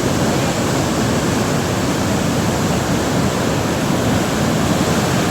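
Waterfall crashing steadily into its pool, a loud, even rush of falling water.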